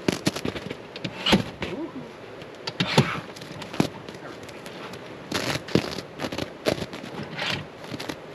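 Irregular clicks, knocks and short rustles of rooftop-tent gear being handled: fabric, poles and fittings being worked by hand.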